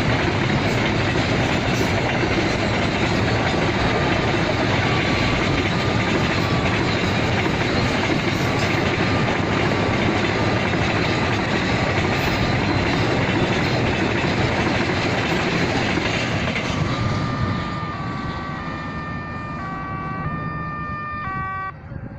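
Freight train running past with a dense, loud noise of wheels and rumble that drops away about 17 seconds in. In the last few seconds a series of electronic tones steps between pitches.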